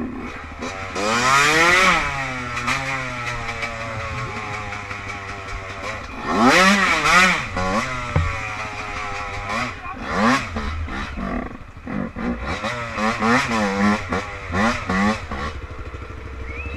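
Off-road vehicle engines revving hard again and again, their pitch sweeping up and falling back. The loudest runs come about a second in and about six seconds in, and a string of quick throttle blips follows near the end.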